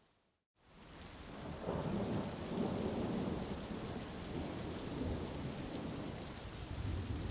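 Heavy rain with a long low rumble of thunder. The sound drops out completely for a moment near the start and then fades back in, and the thunder builds about a second and a half in and rolls on.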